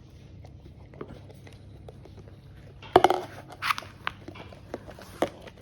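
Chow Chow dog licking and lapping up yogurt, with wet smacks and clicks that come thickest from about three seconds in.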